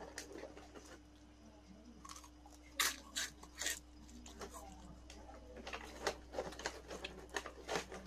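Irregular crisp crunching and crackling of cassava chips being eaten, with two louder crunches about three seconds in.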